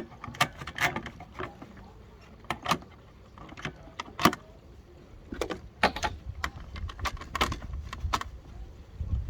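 Irregular clicks and knocks of tools and parts being handled while the mower's engine cover and parts are put back after disconnecting the kill switch; no engine running.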